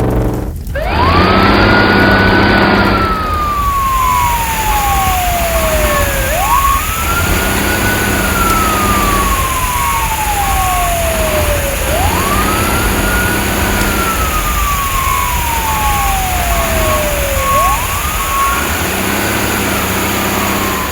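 Wailing siren, its pitch rising quickly and falling slowly, four times about five and a half seconds apart, over a steady rumble.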